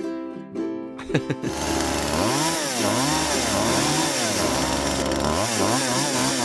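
A small engine buzzing and revving up and down over and over, starting about a second and a half in, over cartoon music.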